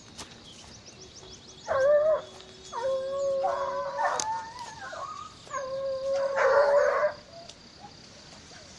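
Hunting dog baying: three long howled calls, the second and third drawn out for more than a second each.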